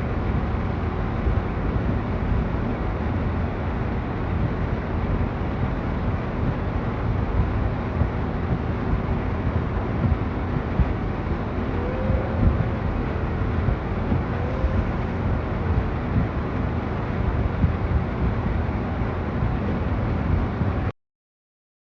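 Wind buffeting the microphone outdoors in a snowstorm: a loud, steady rumble, heaviest in the low end. It cuts off suddenly near the end.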